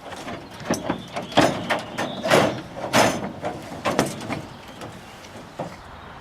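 Metal cage being handled: a run of loud, irregular bangs and clatters, like a sliding cage door being worked, easing off after about four and a half seconds, with one last knock near the end.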